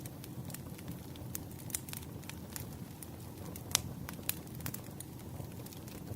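Wood fire crackling, with scattered sharp pops over a low steady rumble; one louder pop a little before four seconds in.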